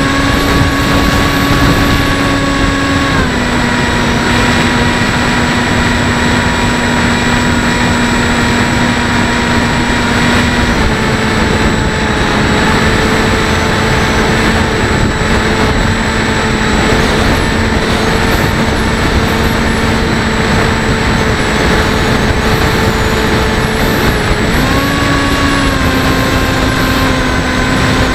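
Electric motor and propeller of a Bixler 1.1 RC plane, heard from on board: a steady whine that steps down in pitch with throttle about three seconds in and again about eleven seconds in, then rises again near the end. Heavy wind rush over the microphone runs under it.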